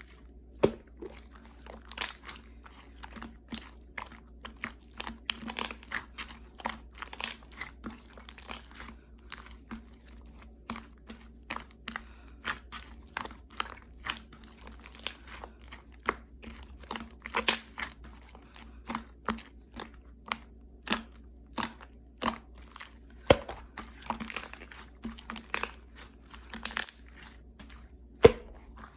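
Slime being squished and pressed by hand, giving irregular sticky clicks and small air-bubble pops, a few each second.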